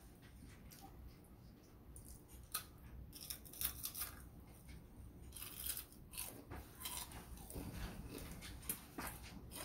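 Crunching and chewing of crispy deep-fried pig-head skin (crispy ulo), close up: a run of sharp, dry crackles as it is bitten and chewed, starting about two seconds in.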